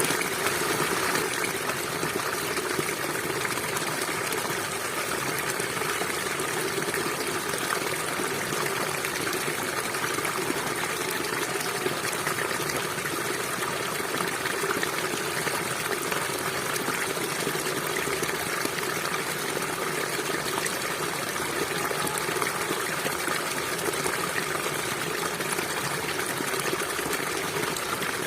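A small stream babbling and gushing steadily over rocks.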